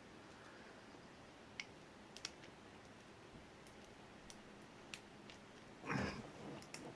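Faint, scattered clicks of lock picks working the pins of a pin-tumbler padlock core, a few seconds apart. There is a short, louder rustle about six seconds in.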